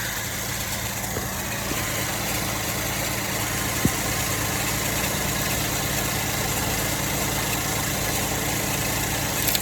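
Car engine idling steadily, with a single short click about four seconds in. The owner suspects the car's alternator is failing.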